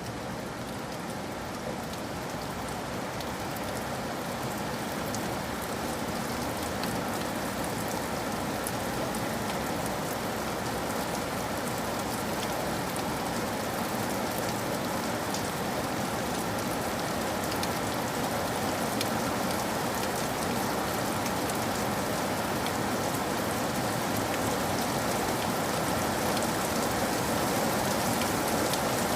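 Steady rain falling and tapping on a cabin roof, with many small drop ticks, growing gradually a little louder.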